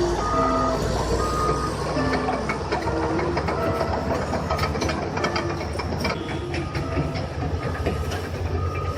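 Heavy machinery running with a steady low rumble and scattered clanks, with short beeping tones at varying pitches over it.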